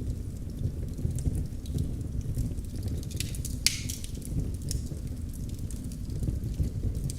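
Wood fire crackling in a fireplace: a steady low rumble of flames with scattered small pops and snaps, and one sharper pop a little past halfway.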